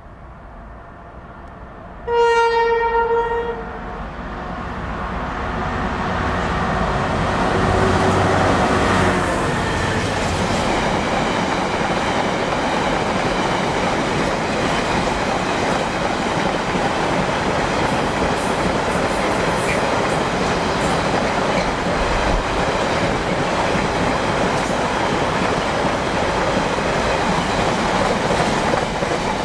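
GM 201 class diesel-electric locomotive (EMD 12-710 engine) gives one horn blast of about a second and a half, about two seconds in. Its engine grows louder as it passes at the head of a long container freight train, followed by the steady rolling noise of laden container flat wagons going by.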